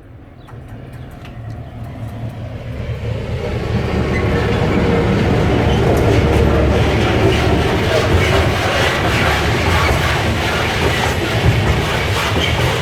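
Freight train hauled by a Serbia Cargo class 661 diesel-electric locomotive (EMD G16) approaching and passing: a low diesel engine rumble grows louder over the first four or five seconds, then stays loud and steady with the clicking of wheels over the rail joints.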